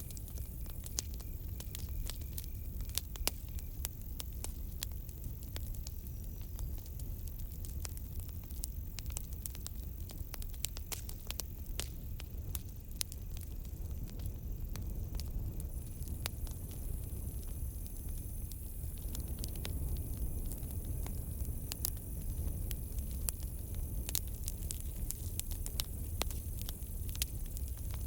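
Wood campfire crackling, with frequent sharp pops and snaps over a steady low rumble of the flames. About halfway in, a faint steady high chirring of crickets joins.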